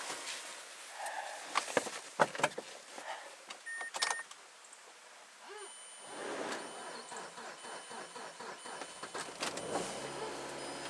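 Mazda Miata's four-cylinder engine being started from cold at minus eight degrees. There are a few clicks and knocks and a short chime about four seconds in, then the starter cranks for about three seconds and the engine catches and settles into a steady idle near the end.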